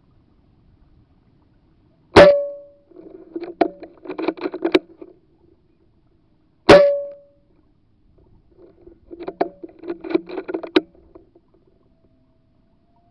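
Two sharp air-rifle shots, about four and a half seconds apart, each with a short ringing tone after the crack. Each shot is followed by a second or two of quick clicking and rattling.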